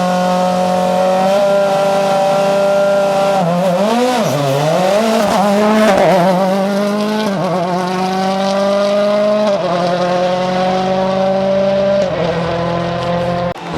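Ford Fiesta RS WRC rally car's turbocharged four-cylinder engine running hard at high revs. Its pitch rises and falls quickly several times in the middle as the throttle is worked, then drops in steps near the end.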